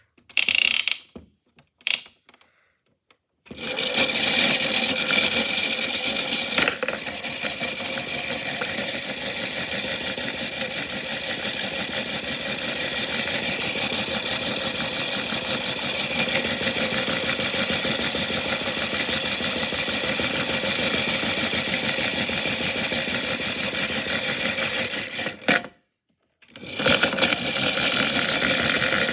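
Washing machine running with a large rock inside: a loud, steady mechanical rattling clatter. It stops briefly about 26 seconds in, then starts again.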